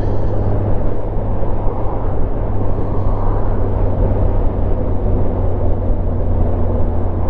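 Kawasaki motorcycle riding at a steady speed: a constant low engine drone under wind and road noise.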